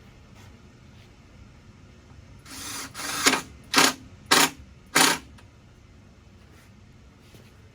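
Power drill driving a screw into wood benchwork: one longer run that builds up, then three short bursts about half a second apart to seat the screw.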